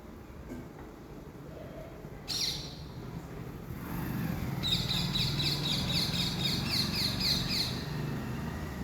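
Parrot calling: one sharp screech a little over two seconds in, then a quick run of repeated high chirps, about four a second, for some three seconds.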